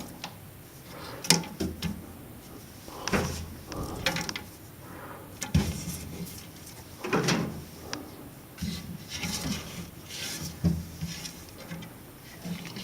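Amana LD10D2 microwave oven being handled: a series of irregular sharp clacks and knocks, about six strong ones spread over several seconds, like a door or panel being opened and shut.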